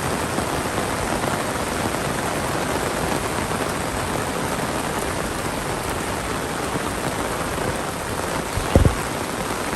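Heavy monsoon rain falling steadily, a dense even hiss of rain on surfaces. A single short low thump sounds near the end.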